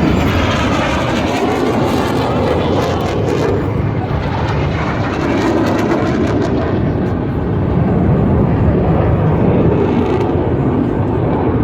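Jet engine roar of Black Eagles T-50B jets, single General Electric F404 turbofans, flying their display overhead; a loud, continuous rushing roar that swells and eases, its hissing top thinning out after about seven seconds.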